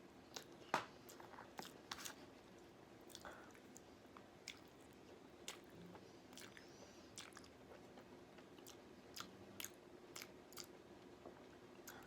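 A person chewing food close to the microphone, with irregular short wet clicks and smacks of the mouth, the loudest about a second in, over a faint steady hum.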